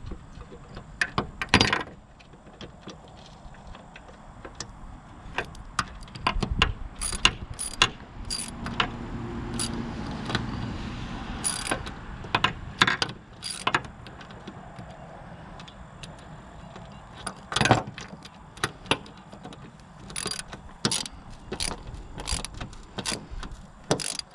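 Hand wrench work on the bearing bolts of a King Kutter finish mower: irregular sharp metallic clicks and clinks in scattered runs, with a steadier stretch of ratcheting and scraping about halfway through.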